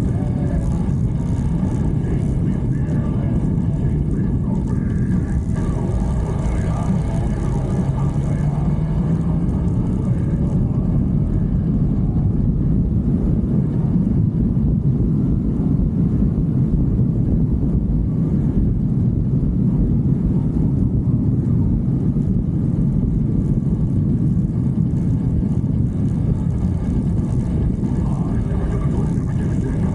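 Motorcycle riding at speed: a steady engine drone mixed with heavy wind rush on the microphone. The engine note rises once, about seven seconds in.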